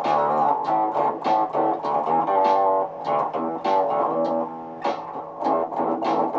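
Looped guitar music: quick plucked guitar notes layered over steady low notes underneath.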